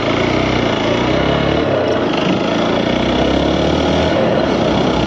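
Hero XPulse 200 dirt bike's single-cylinder engine running, its note dipping and rising a few times as the throttle is worked.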